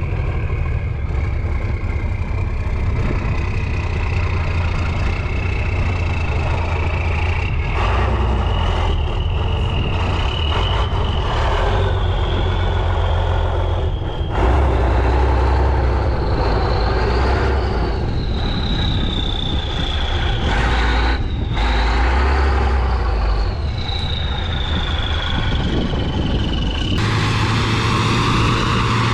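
Heavy off-road trial truck engine working hard under load, with a high whine that climbs and falls with the revs. The sound changes abruptly near the end.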